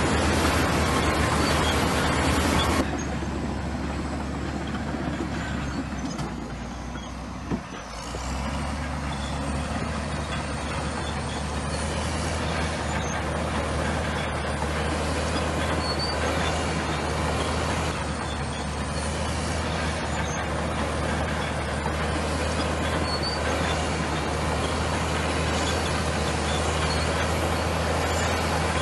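Bulldozer diesel engine running steadily. About three seconds in it drops to a lighter note, sags further with a single knock near eight seconds, then picks back up and runs on steadily.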